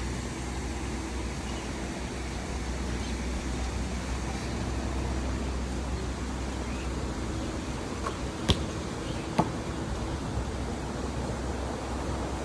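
Steady rushing background noise with a low hum, broken twice by a sharp click about a second apart, roughly two-thirds of the way in.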